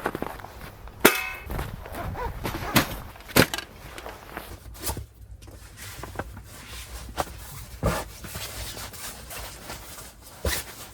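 Irregular knocks and clatters, the loudest a single ringing metallic clang about a second in.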